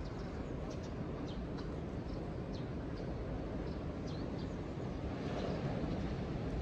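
Steady low rumble of ocean surf, with faint short bird chirps scattered over it.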